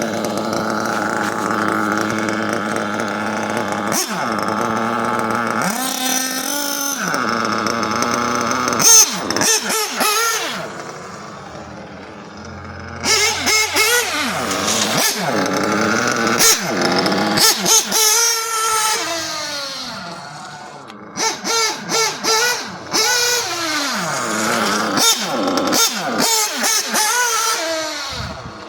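Small nitro engine (FX K303) of a 1/8-scale Xray XB8 RC buggy running at high pitch, revving up and down repeatedly under throttle. It drops back to a lower idle about ten seconds in and briefly again near the end.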